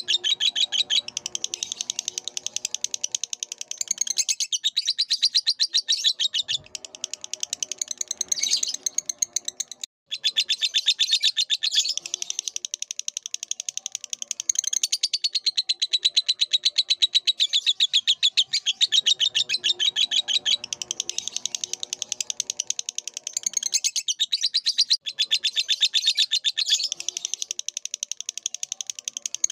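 Lovebird singing in long, rapid chattering trills of high chirps, each run lasting several seconds. There is a brief break about ten seconds in. Fainter lower sounds come and go underneath.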